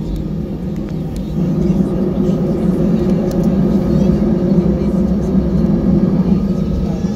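Steady cabin noise inside an Airbus A319 on the ground, its engines running at low power with a hum under the rush of cabin air, growing louder about a second in.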